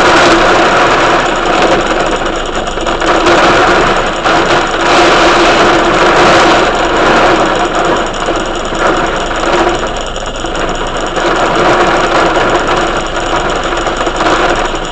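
Heavy thunderstorm rain pouring down, loud and steady.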